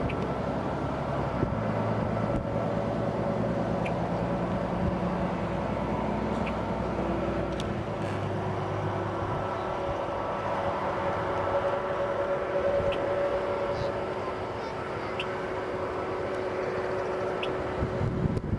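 Jet aircraft engines running: a steady rumble with several held whining tones that shift in pitch about halfway through.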